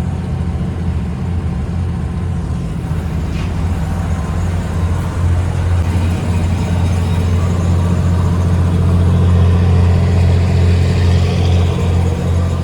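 Ferry boat's engine running steadily while the boat is under way: a loud, continuous low drone.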